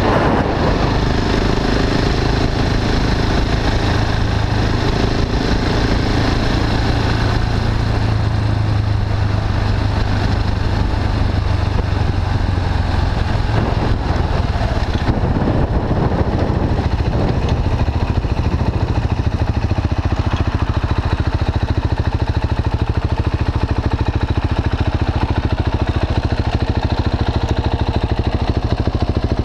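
KTM 690 Duke's single-cylinder four-stroke engine through an Akrapovic slip-on exhaust, running steadily at cruising speed with wind rushing over the microphone. About halfway in the engine eases off and the wind drops as the bike slows, settling towards idle near the end.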